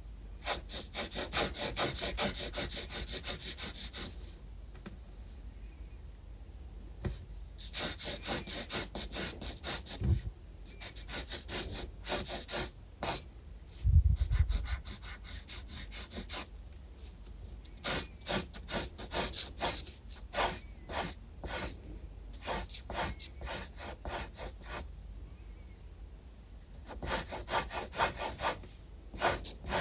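Graphite pencil scratching on sketchbook paper in quick back-and-forth shading strokes, several a second, in runs of a few seconds with pauses between. A dull bump, likely the hand or sketchbook, sounds a little past the middle.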